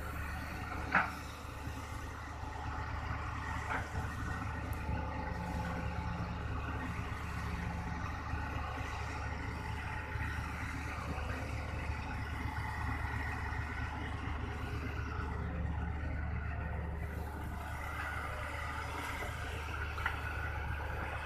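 Hitachi ZX200-1 hydraulic excavator's diesel engine running steadily under load as it digs soil and loads it into a dump truck. A sharp knock comes about a second in.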